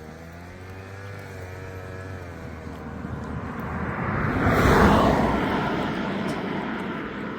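A motor vehicle passing close by. Its engine tone is heard first, then the sound swells to its loudest just under five seconds in and fades away.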